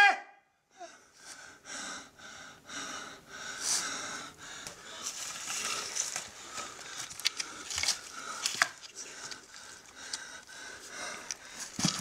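A man breathing hard in quick, ragged pants, with a single thud near the end.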